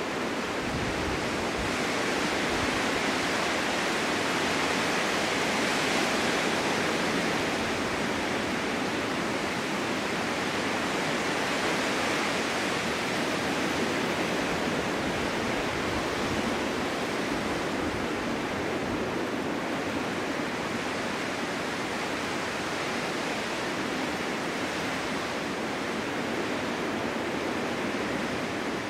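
Winter wind blowing steadily, a continuous rushing hiss that swells gently in the first third and then eases slightly.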